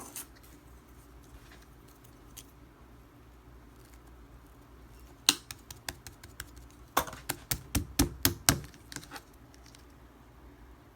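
Slime being squished and poked by hand, making crisp clicking pops: one sharp pop about five seconds in, then a quick run of about a dozen between seven and nine seconds.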